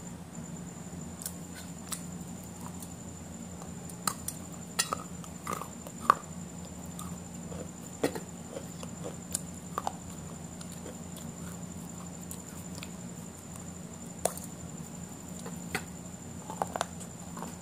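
Close-miked eating of a burger and fries: scattered, irregular mouth clicks and smacks of chewing, over a steady electrical hum and a faint high whine.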